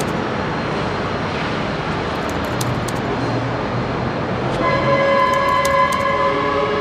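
Train running on the line beside the station: a steady rushing noise, joined about two-thirds of the way in by a steady pitched tone sounding at several pitches at once.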